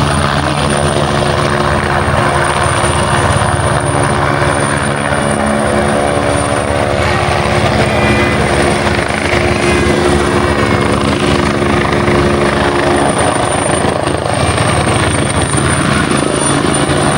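A helicopter hovering, with its rotor and engine making a dense, continuous drone. Several steady hum tones sit in the low range and a thin high whine holds steady above them.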